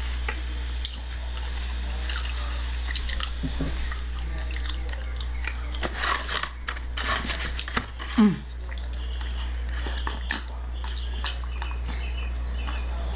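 Close-miked chewing and lip-smacking of chicken wings, with a cluster of sharp wet clicks and smacks in the middle and a short falling hum-like vocal sound about eight seconds in. A steady low hum runs underneath.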